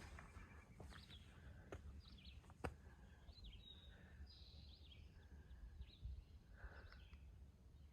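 Faint birdsong, scattered short chirps and trills from several birds, over a low rumble of wind or handling noise with a few soft clicks.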